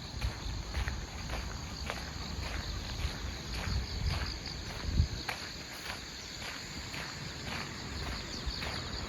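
Footsteps walking at a steady pace, about two steps a second, over a steady chorus of crickets and other autumn grass insects. A louder low thump comes about halfway through.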